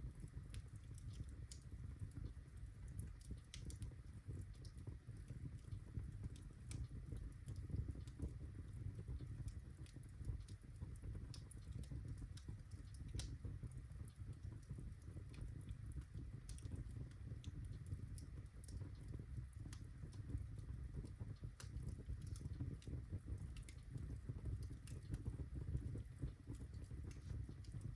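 Birchwood fire burning in a fireplace: a steady low rumble of flame with scattered sharp crackles and pops, several a second.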